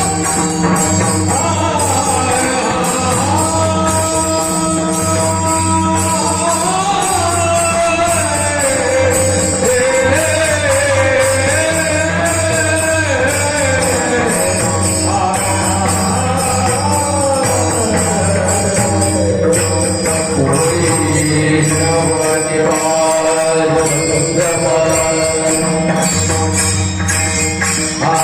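Marathi Warkari devotional singing: a male voice sings a winding melody over steady low accompanying tones and continuous jingling metal percussion.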